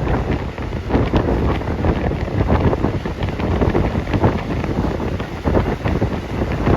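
Wind buffeting the phone's microphone, a loud, gusty rumble with irregular bursts.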